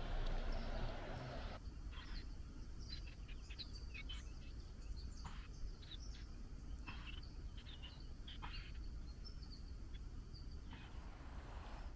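Small birds chirping outdoors: many short, high chirps scattered irregularly, over a steady low rumble. A rustling hiss in the first second and a half cuts off abruptly.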